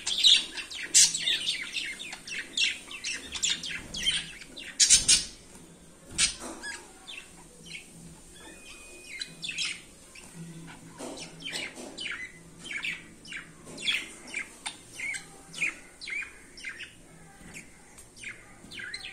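Budgerigars chirping and chattering in quick, short high calls that keep coming, busiest and loudest in the first few seconds, with a bump about five seconds in.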